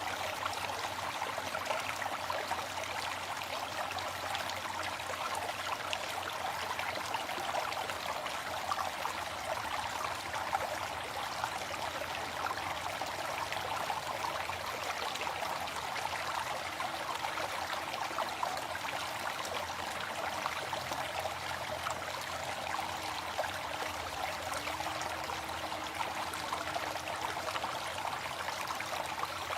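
Waterfall: falling water splashing in a steady, even rush.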